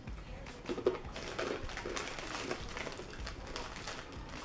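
Sunflower and sesame seeded crackers being opened and eaten: a run of irregular crackling crunches, with a few short low hums about a second in.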